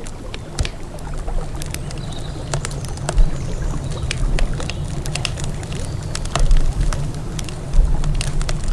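Wood campfire crackling, with frequent sharp pops and snaps scattered irregularly, over a steady low rumble of river water flowing.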